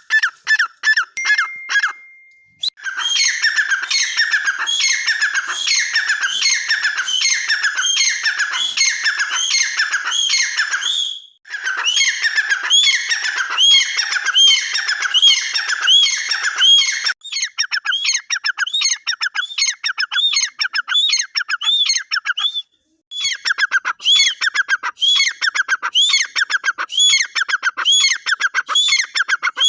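Teetar (francolin) calling: a fast, unbroken run of harsh repeated calls, a few per second, stopping and restarting with brief gaps a few times.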